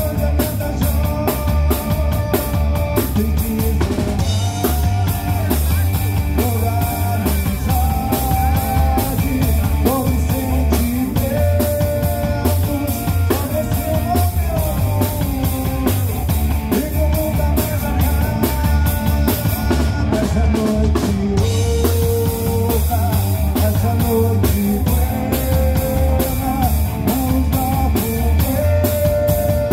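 Live rock band playing an instrumental passage: a drum kit keeps a steady beat with bass, while a guitar plays a sliding, bending lead line on top.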